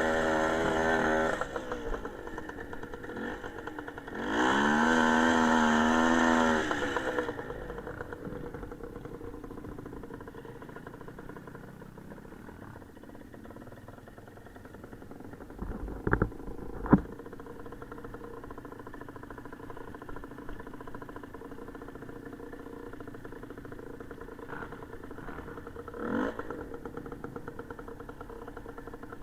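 Small motorcycle engine revved hard twice, the pitch climbing and holding for a few seconds each time, then settling to a quieter steady running note. Two sharp knocks come around the middle.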